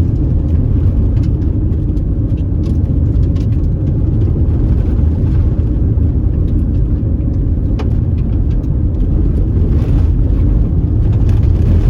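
A car driving, heard from inside: a steady low rumble of tyres and engine on a dusty unpaved road, with a few scattered small ticks.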